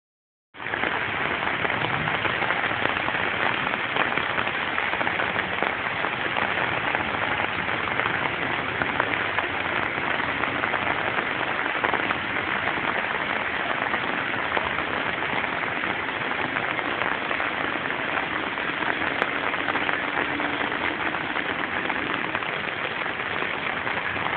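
Rain falling steadily, an even hiss of drops that starts suddenly about half a second in and holds constant.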